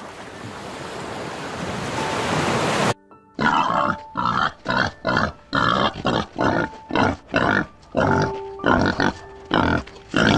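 A rushing, surf-like noise builds for about three seconds and cuts off abruptly. Then an animal grunts in a steady run of short, loud grunts, about two a second, with faint music underneath.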